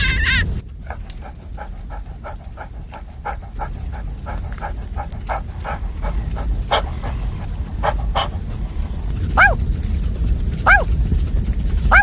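A dog yipping in a quick run of short barks, about three or four a second, which thins out to a few spaced yips and then three longer arched yelps near the end, over a steady low rumble.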